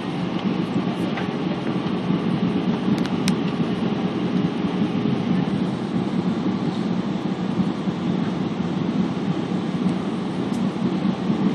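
Steady cabin noise inside an Airbus A320 in flight: an even low rumble of the jet engines and airflow, with a faint steady hum above it.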